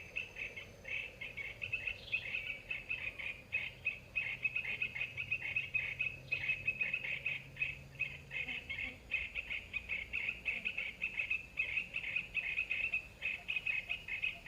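Small birds chirping in a rapid, unbroken run of short high notes, several a second, without a pause.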